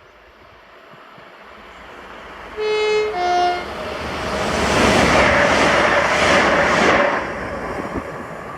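ScotRail Class 385 electric multiple unit approaching and passing at speed, sounding two short horn notes about three seconds in, its rush of noise building to a peak a few seconds later and then easing off.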